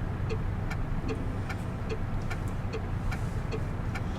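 Car driving along with a steady low engine and road rumble, while the turn-signal indicator clicks evenly, about two to three clicks a second.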